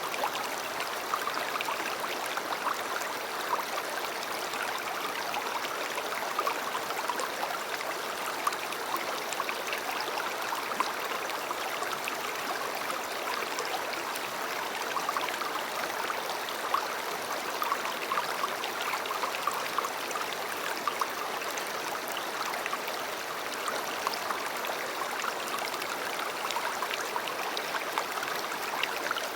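A river running steadily: continuous flowing-water rush with many small splashes and gurgles.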